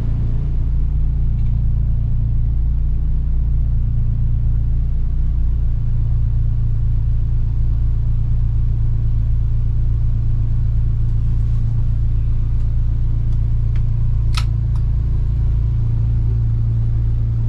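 Boat motor running steadily with a constant low drone. There is one brief sharp click near the end.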